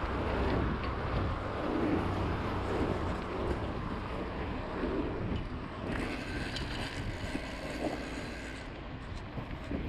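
Steady road and wind noise of travel, with a low hum underneath and wind buffeting the microphone.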